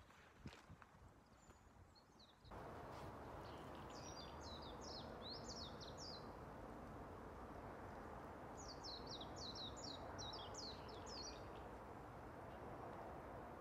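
Faint outdoor ambience with a small songbird singing twice, each song a quick run of high chirping notes lasting about two seconds, over a steady low background hiss that sets in about two seconds in.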